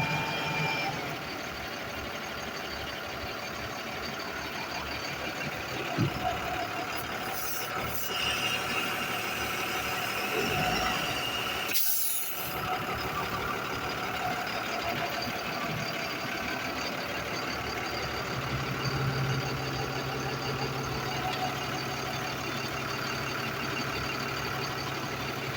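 Yard truck (terminal tractor) engine running steadily, with a brief hiss about twelve seconds in.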